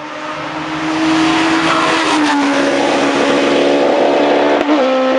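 Hillclimb race car at full throttle, growing louder as it approaches, with the engine note dropping at two upshifts, about two seconds in and again near the end.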